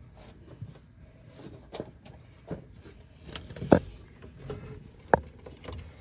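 Scattered light clicks and knocks of hands working a golf cart's accelerator cable end and throttle linkage into place, with two sharper knocks, one near the middle and another about a second and a half later.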